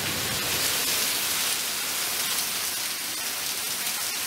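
Heavy rain pouring down, a steady, dense hiss of water hitting surfaces.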